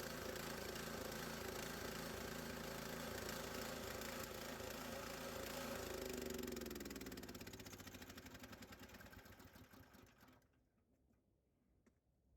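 Harbor Freight Central Machinery bandsaw sawmill's gasoline engine running steadily, then shut off about six seconds in, its pitch falling as it winds down to a stop over about four seconds. A few faint ticks follow.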